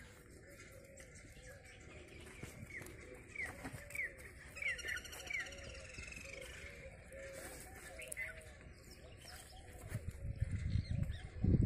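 Birds chirping and calling, with short falling chirps and a string of repeated lower notes. Near the end, heavy low thuds and scuffing set in and become the loudest sound as two young bulls shove head to head on the dirt.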